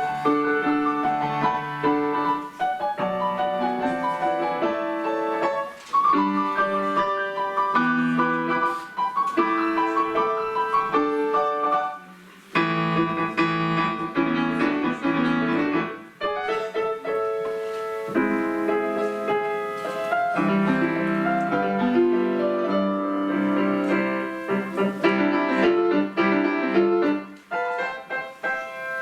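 Piano playing a melodic piece, with brief pauses between phrases.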